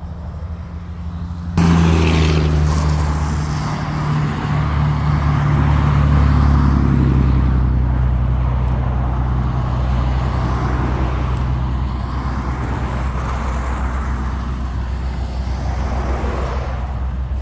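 A motor vehicle's engine running close by. It comes up suddenly a second or two in, then holds as a steady hum whose pitch slowly drops.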